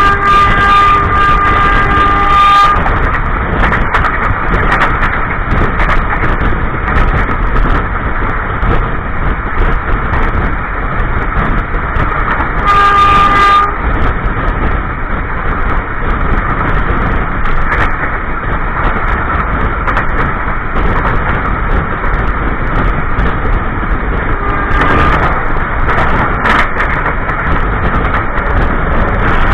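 Passenger train running on the rails, with loud wheel-and-track noise heard through a carriage's toilet. The locomotive's horn sounds for nearly three seconds at the start, again briefly about 13 seconds in, and faintly near 25 seconds.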